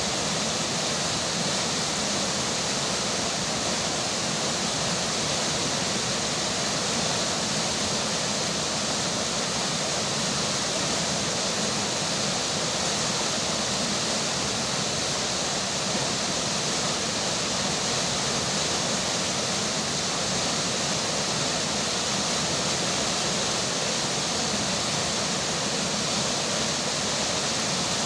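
Flowing river with rain falling: a steady, even rush of water that doesn't change.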